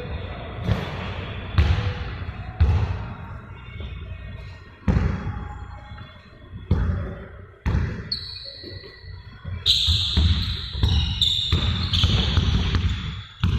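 Basketballs bouncing on a hard gym floor: a handful of separate, echoing bounces, irregularly spaced. From about two-thirds of the way in they are joined by short, high squeaks like sneaker soles on the court.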